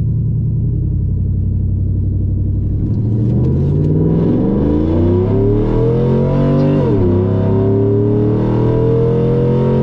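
A GMC Sierra's 5.3-litre V8, with long-tube headers, full 3-inch exhaust and a MagnaFlow bullet muffler, is launched at full throttle. It rumbles steadily for a few seconds, then the revs climb. They drop at an upshift about seven seconds in, then climb again.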